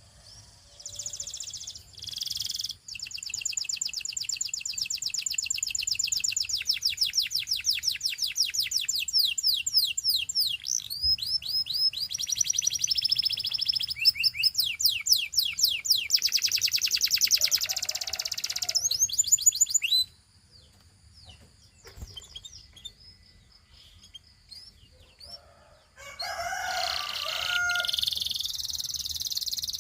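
Gloster canary singing: long runs of rapid trills, each a fast string of repeated notes that shifts to a new pitch and speed every second or two. The song breaks off about two-thirds of the way through, leaving a few faint chirps, and starts again near the end.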